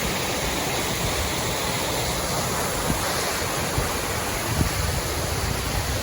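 Steady rush of a large waterfall heard from the top of the falls, with a few brief low thumps in the middle.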